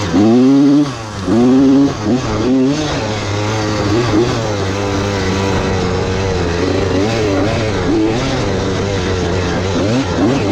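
Dirt bike engine revved hard twice in the first two seconds, its pitch rising each time. It then holds a steady speed while riding, with a few quick revs near the end.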